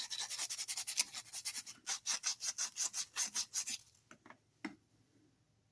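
Sandpaper rubbed by hand back and forth over the end of a metal motor shaft, knocking down burrs left by the pulley. It is a quick run of rasping strokes, several a second, that stops about four seconds in, followed by a couple of faint taps.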